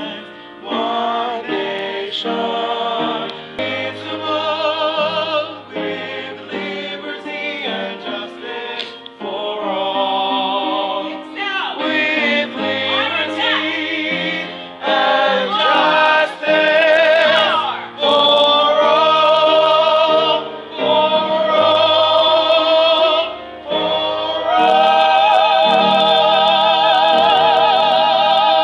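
Music: a singer with wide vibrato over accompaniment with a low bass line, ending on long held high notes.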